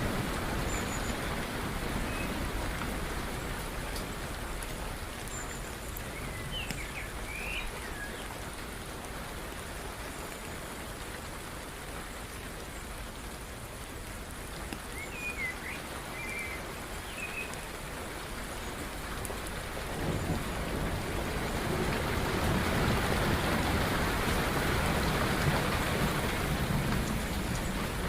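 Steady rain falling, with a couple of brief bird chirps twice in the first half. A low rumble of thunder builds in the last third.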